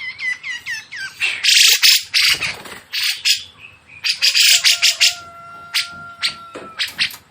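Songbird song: a quick run of repeated chirps, then loud harsh rasping bursts mixed with a few held whistled notes.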